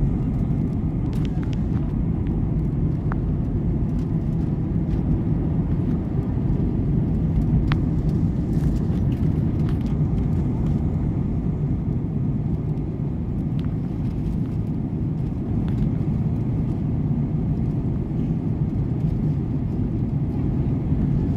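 Steady low rumble of an airliner's engines and airframe heard inside the passenger cabin, with a few faint ticks.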